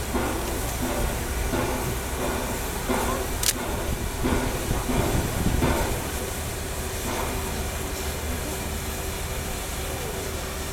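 Steam locomotive 60163 Tornado, a Peppercorn A1 Pacific, hissing steam, with uneven surges over the first half and a steadier hiss after that. A single sharp click comes about three and a half seconds in.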